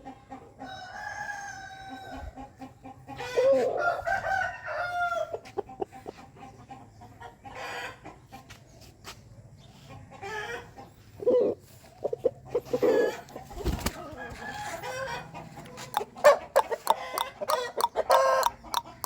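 Aseel chickens crowing and clucking: long drawn-out calls in the first five seconds, scattered calls in the middle, and a quick run of sharp clucks near the end.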